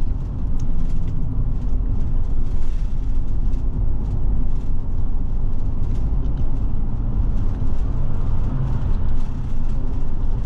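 Forest River Forester motorhome driving, heard from inside the cab: a steady low drone of engine and road noise with a few constant hum tones.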